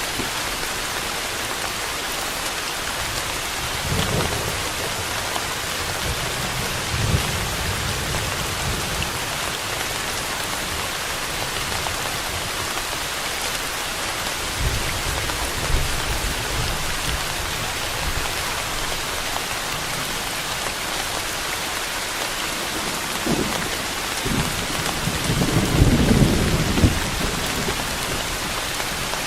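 Steady heavy rain hissing, with several low rolls of thunder. The loudest and longest roll comes near the end.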